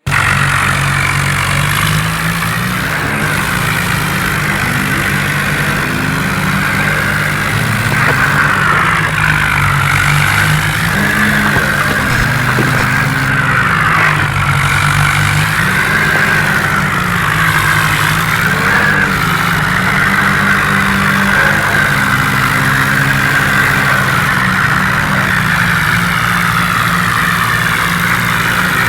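Tractor diesel engine running continuously, its pitch rising and falling again and again as the revs change.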